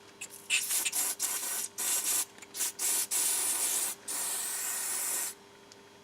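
Leak-finder spray of soapy water hissing in a series of short bursts, then longer ones, the last lasting over a second, as it is sprayed over a plugged tyre puncture to check the repair for air leaks.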